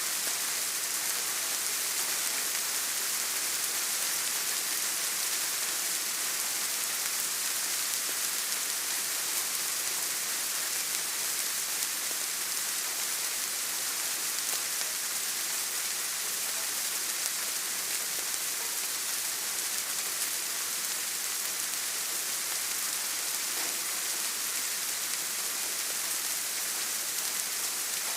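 Steady rain falling: an even, unbroken hiss, strongest in the high end.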